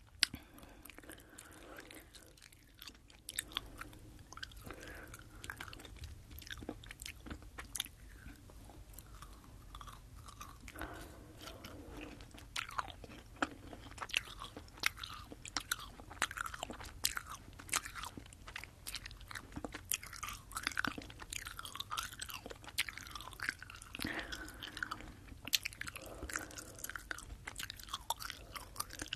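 Close-up chewing of sour Fini gummy candy into a binaural microphone: a steady run of small mouth clicks that grows denser about halfway through.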